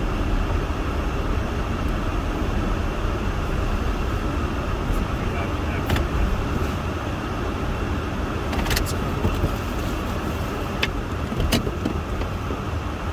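Steady rush of a van's heater blower with the engine running underneath, heard inside the cabin. A few light clicks come in the second half.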